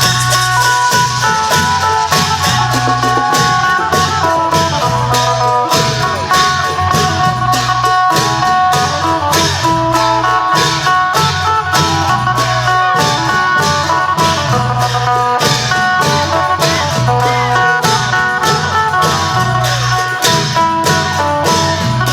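Isan klong yao long-drum band music: a phin (plucked Isan lute) plays a bending melody over held drone notes while the long drums and cymbals keep a steady beat.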